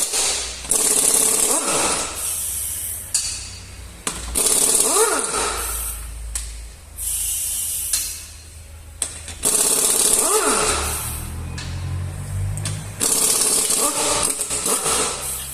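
A pneumatic impact wrench runs in four bursts of one to two seconds each. Its whine rises and falls with each burst, over a steady low hum.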